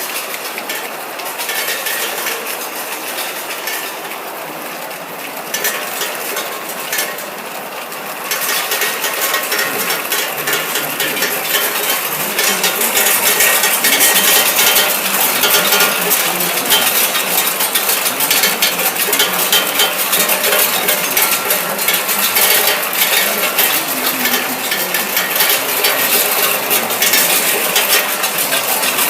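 Plastic cap lining machine running, with a dense, continuous clatter of plastic caps and mechanism clicking as the caps are fed through and fitted with liners. It grows louder about a third of the way in.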